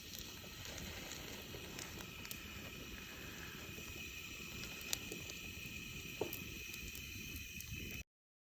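Outdoor morning ambience: a steady high-pitched hum with scattered faint clicks and a short chirp about six seconds in, cutting off suddenly near the end.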